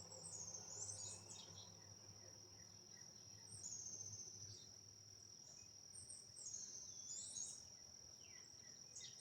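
Quiet background with crickets chirping: a steady high trill, with short chirps about every three seconds.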